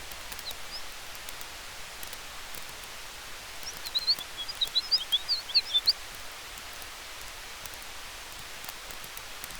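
Campfire crackling with small scattered pops over a steady wind hiss. A quick run of high bird chirps comes in from about four to six seconds in.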